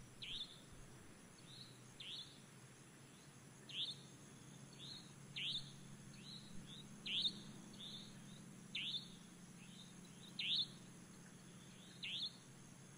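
A bird calling faintly, with short downward-sliding chirps about once every second and a half, each followed by a softer second note. A faint low steady hum runs underneath.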